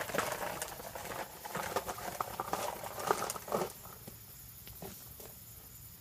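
Toy trucks scraping and crunching through dirt in irregular bursts, quieter after about three and a half seconds.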